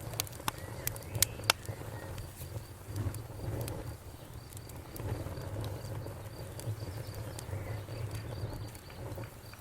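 Campfire crackling, with several sharp pops in the first second and a half and a few more later, over the low rumble of the burning wood. A faint high chirp repeats rapidly and evenly from about halfway through.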